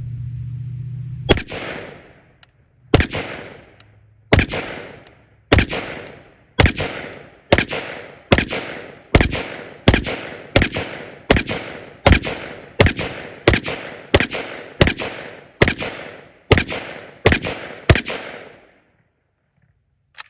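About twenty rapid aimed shots from a semi-automatic rifle in 7.62x51mm NATO (.308), each ringing out with a fading echo. The shots start about a second in, come slower at first and then faster, at roughly one and a half a second, and stop near the end.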